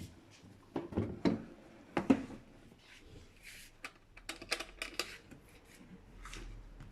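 Wooden display box being opened and handled: a few sharp wooden knocks and clicks in the first couple of seconds, then a run of lighter ticks and rustles from about four seconds in.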